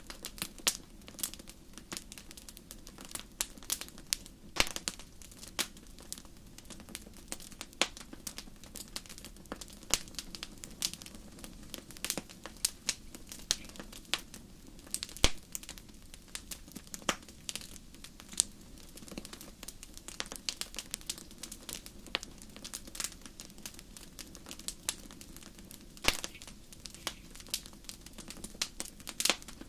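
Wood fire in a fireplace crackling: irregular sharp pops and snaps over a soft, steady background, with the loudest snaps about 15 and 26 seconds in.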